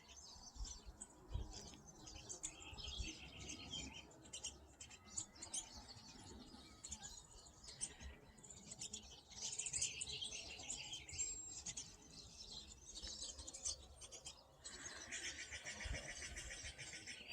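A flock of pine siskins, many of them young birds, chirping and twittering continuously, with a dense, rapidly repeating chatter in the last couple of seconds.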